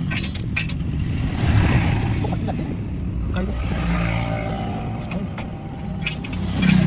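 A motor vehicle's engine running with a low, continuous rumble that swells about a second and a half in and again near the end.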